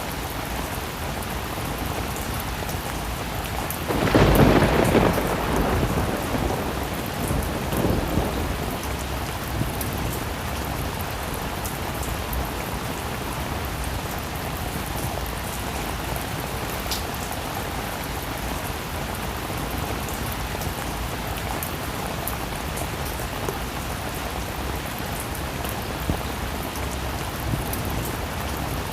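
Heavy rain falling steadily, with a clap of thunder about four seconds in that rumbles away over the next few seconds.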